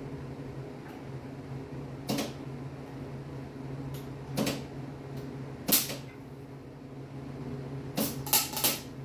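Six sharp knocks of tools or parts being handled in a workshop, the last three close together near the end, over a steady low hum like a fan running.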